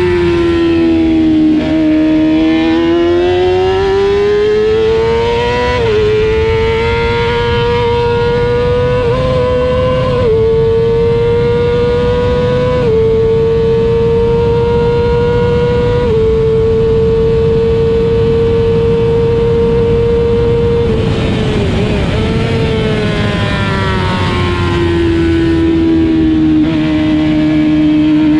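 Racing motorcycle engine heard onboard at speed: the pitch climbs in steps as the rider accelerates, holds steady at high revs for several seconds, then falls away as the bike slows a little after two-thirds of the way through, and starts climbing again near the end.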